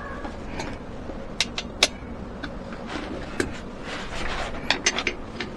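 Scattered sharp clicks and knocks, the loudest a pair close together about a second and a half in and a quick cluster near the end, over a steady low hum.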